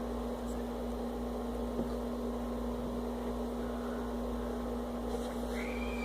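Steady hum: one constant tone over a low rumble. Near the end a thin high tone starts and slowly falls in pitch.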